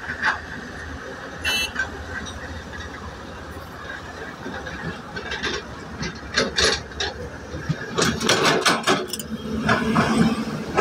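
Train running slowly, heard from on board: a steady low rumble from the wheels, a brief high squeal about a second and a half in, and runs of sharp knocks in the second half.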